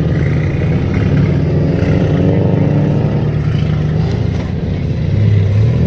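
A BMW's engine running as the car moves through the lot at low speed. Its pitch rises slightly about two seconds in, and a deeper engine note grows louder near the end.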